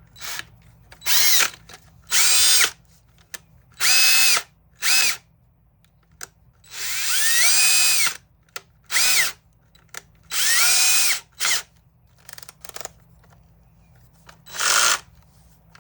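DeWalt DCD780 brushed cordless drill run in about nine short trigger bursts after cleaning and regreasing its gears. Each burst spins up to a high-pitched whine, and a few clicks fall between the runs.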